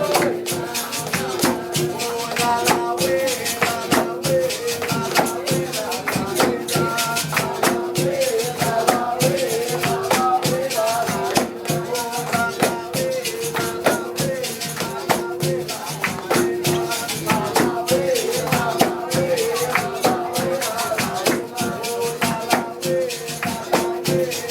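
Capoeira music: a shaken rattle and hand percussion keep a steady, busy rhythm under singing, with a short pitched note repeating over and over.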